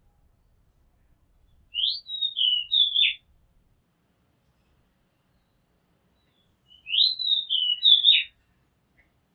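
Oriental magpie-robin singing: two matching whistled phrases about five seconds apart, each a rising note followed by falling slurred notes, with long pauses around them.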